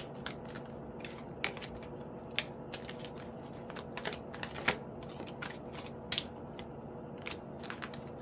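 Tarot cards being handled and shuffled: irregular light clicks and taps of the cards, a few each second, over a faint steady hum.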